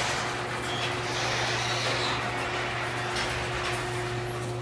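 Sears Craftsman garage door opener motor running loud as it drives the garage door closed: a steady low hum with a constant tone over the noise of the moving door.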